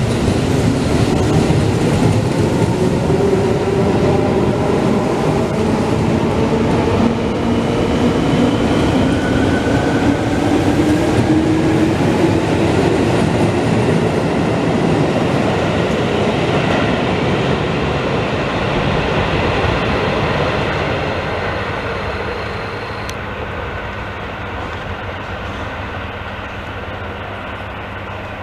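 Tobu 10050-series electric train pulling away from the platform: the whine of its DC traction motors and gears rises in pitch as it accelerates, with wheels clattering over the rails. The sound fades gradually in the second half as the train draws away.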